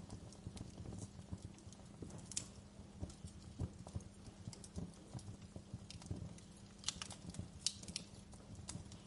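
Fire in a fireplace crackling: irregular pops and snaps over a low steady rumble, with a few sharper snaps about two and a half seconds in and again around seven to eight seconds in.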